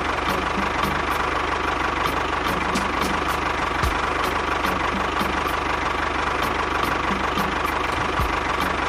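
A small engine running steadily at an even idle, with a rapid regular beat and a steady high whine above it.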